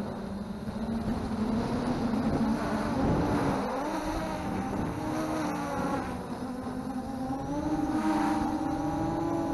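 Brushless motors of an MJX Bugs 3 quadcopter whining in flight, the pitch rising and falling as the throttle changes, over a low rumble of wind on the onboard camera's microphone.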